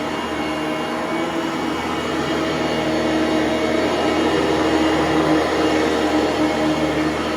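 Bissell Pro Lite vacuum cleaner running steadily while vacuuming carpet: a dense rushing noise with a steady motor hum, a little louder around the middle.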